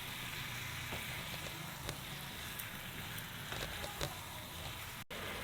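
Marinated chicken sizzling steadily in oil and masala paste in a cooking pan, a low even sizzle with a few faint ticks.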